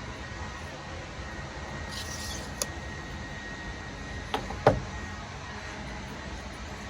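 A light click, then two sharp knocks close together about four and a half seconds in, the second a solid thump, over a steady background hum.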